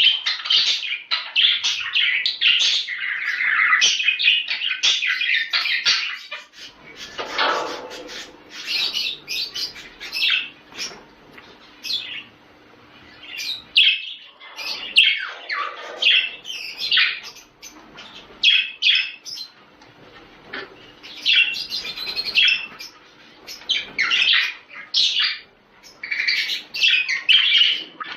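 A group of budgerigars chattering and warbling in a busy stream of short chirps, thinning briefly now and then. This is budgie breeding chatter, played to get pet budgies in the mood to mate.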